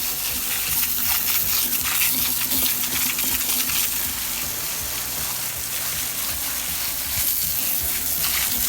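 Water spraying onto a wire-spoke wheel, rinsing off degreaser: a steady hiss with a fine spattering crackle.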